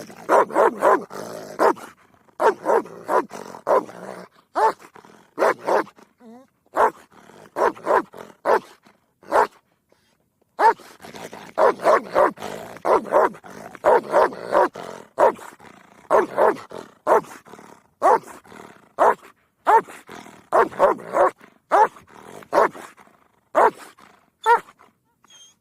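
Repeated short barking calls, several a second, in runs separated by brief pauses.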